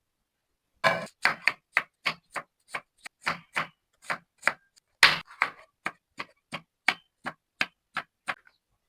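Knife chopping on a cutting board: about two dozen even, separate strokes at roughly three a second, starting about a second in.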